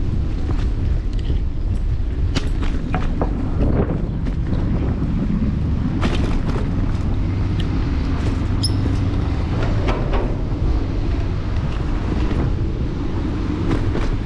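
Electric scooter ride heard from a handlebar-mounted camera: a steady low rumble of wind and road noise, with frequent clicks and knocks as the scooter goes over bumps in the pavement.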